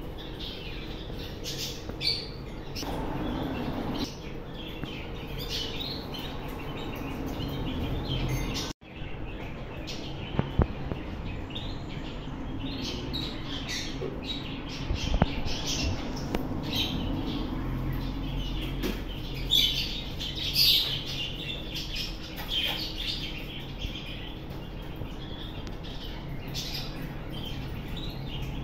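Parrots chirping in many short, high calls, over a steady low hum. The sound drops out briefly about nine seconds in.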